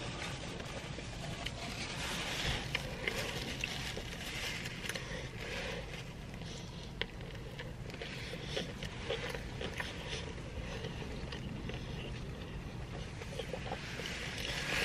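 A person biting into and chewing a toasted sub sandwich, with small scattered mouth clicks, over a steady low rumble in a car's cabin.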